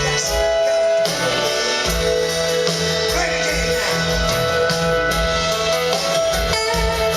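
Instrumental break of a slow soul ballad played by a band: held chords over a bass line, with no singing.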